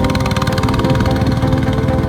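Small tractor engine running steadily, with music playing over it.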